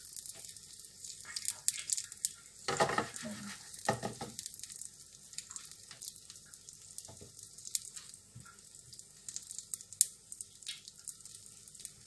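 A squid-and-vegetable batter fritter sizzling in a spoonful of oil in a nonstick frying pan on low heat: a steady fine hiss with scattered crackles and pops. About three and four seconds in there are a couple of louder handling sounds.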